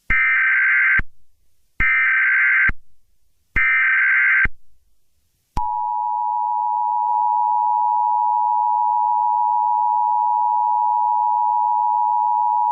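Emergency Alert System tones: three roughly one-second bursts of shrill, buzzing SAME data header, then about five and a half seconds in, the steady two-note EAS attention signal starts and holds.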